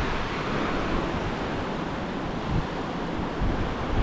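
Surf breaking on a beach, a steady wash of waves, with wind buffeting the microphone in low rumbles.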